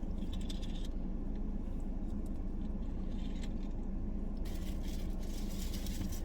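Steady low hum of a car idling with its air conditioning running, heard inside the cabin, with faint small clicks and scrapes of food handling. A brighter hiss comes in about four seconds in.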